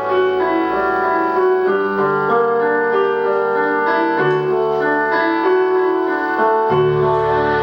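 Piano playing an instrumental introduction: sustained chords over a bass line, changing every second or two.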